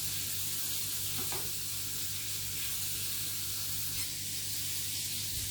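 Meatballs frying in a pan, a steady sizzle of hot oil, with a steady low hum beneath and a faint tap about a second in.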